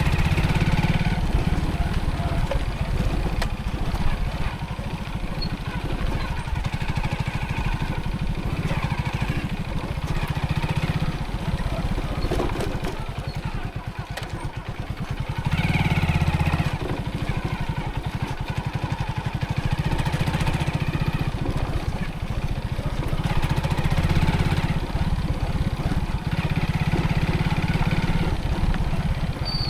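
Motorcycle engine running while riding. The throttle is opened and eased off several times. It eases off about halfway through and opens up again a couple of seconds later.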